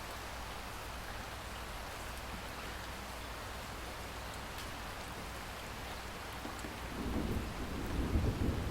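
Steady rainfall, joined about seven seconds in by a low rumble of thunder that swells toward the end.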